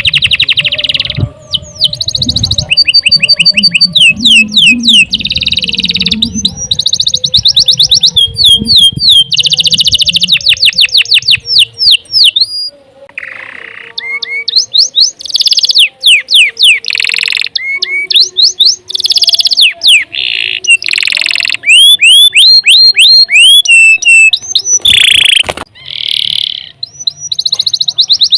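Domestic canary singing a long, continuous song of rapid trills, each a fast run of identical sweeping notes that switches to a new note pattern every second or two with hardly a pause.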